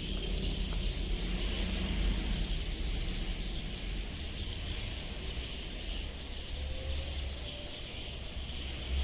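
Many swiftlets twittering together in a dense, continuous high chirping, over a steady low rumble.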